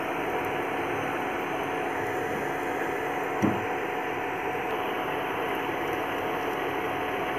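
Aloo paratha frying in mustard oil on a non-stick tawa, a steady sizzling hiss with a faint steady hum under it. A wooden spatula knocks once against the pan about three and a half seconds in.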